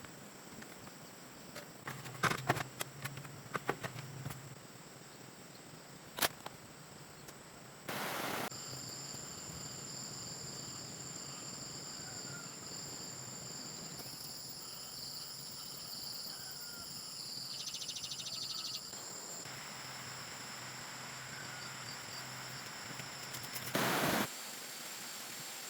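Insects chirring steadily in a high pitch. A quick cluster of sharp clicks or knocks comes about two seconds in, with another single click near six seconds and two brief bursts of noise later on.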